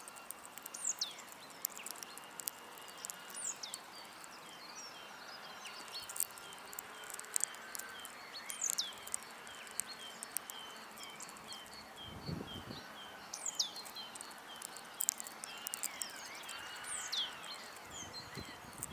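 Garden songbirds calling at a feeder. From about six seconds in there is a run of short repeated chirps, two or three a second, with several high notes sweeping downward and scattered sharp clicks. About twelve seconds in comes a brief low rustle.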